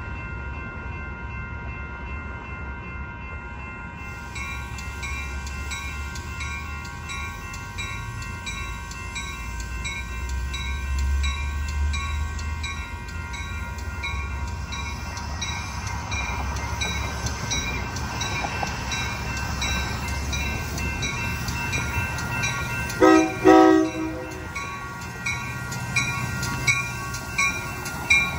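Metra commuter train approaching and passing, its low rumble growing as it nears. About 23 seconds in the train sounds a short double blast on its horn. Then the wheels clack over the rail joints as the bilevel cars roll by.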